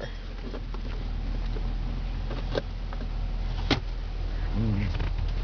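The 2011 Cadillac CTS-V's supercharged 6.2-litre V8 idling, heard as a steady low hum from inside the cabin. Two sharp clicks come partway through, a little over a second apart.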